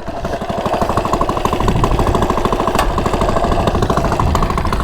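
Coleman CT100U minibike's small single-cylinder four-stroke engine, fitted with an aftermarket header and mini muffler and with its governor removed, idling with a steady, even putter.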